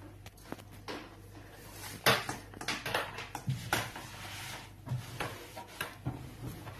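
Cleaning cloth being rubbed around the inside of a microwave oven after vinegar steaming, with irregular light knocks and clatters.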